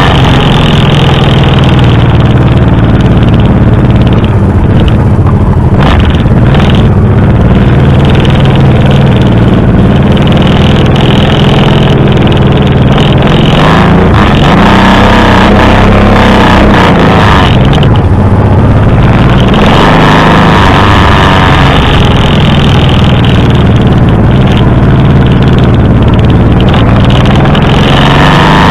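Honda V-twin motorcycle engine running on the move, its pitch rising and falling several times with the throttle and climbing again near the end, over a steady rushing noise.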